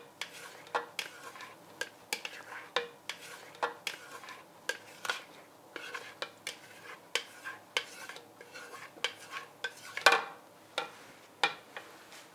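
A utensil stirring in a mixing bowl, clinking and knocking against its side at an uneven pace of one or two strokes a second, with one louder knock about ten seconds in.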